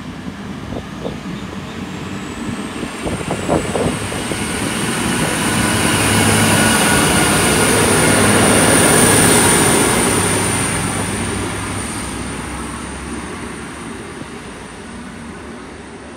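Hunter-class diesel railcar set passing close through the station: engine drone and wheel noise swelling to a peak about halfway through, then fading as it draws away, with a high steady whine above it.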